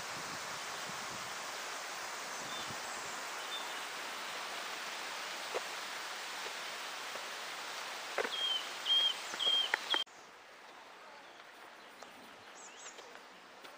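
Outdoor ambience: a steady rustling hiss, with a bird calling four short repeated chirps about eight seconds in. At about ten seconds the hiss drops away suddenly, leaving quieter ambience with a few faint bird chirps.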